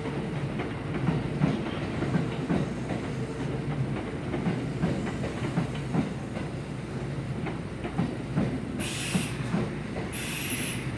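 Electric train rolling slowly through the station, its wheels clacking over rail joints and points with a steady rumble. Two short bursts of air hiss come near the end.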